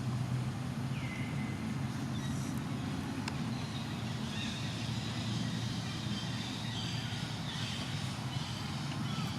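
A steady low engine hum, with a few faint high chirps over it.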